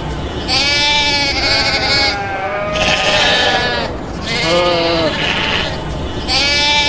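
Farm animal bleating: four calls of a second or so each with short gaps between them, the last starting near the end.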